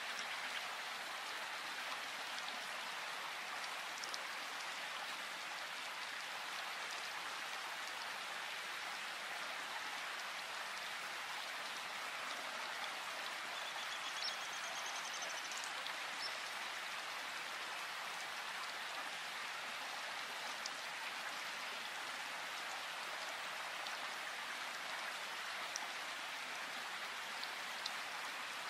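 Steady rain falling in a forest: an even hiss with scattered individual drops ticking.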